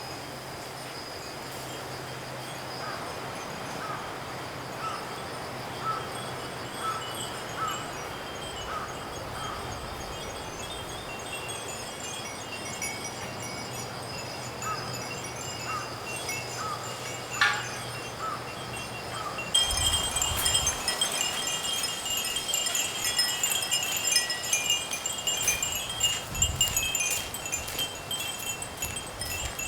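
Japanese fūrin wind chimes tinkling in the breeze over a steady background of insects calling. About two-thirds of the way in it turns louder and busier, with many chimes ringing at once.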